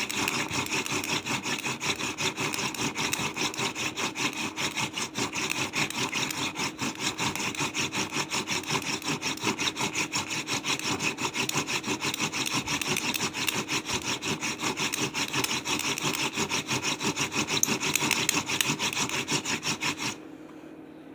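Hand drill fire-making: a wooden spindle spun rapidly back and forth between the palms, grinding into a wooden hearth board in fast, steady rubbing strokes. The drilling stops abruptly near the end.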